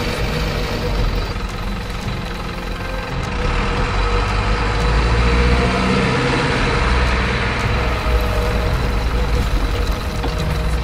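Truck engine sound running steadily at a low rumble, louder from about four seconds in and easing slightly near the end, with a thin steady whine above it.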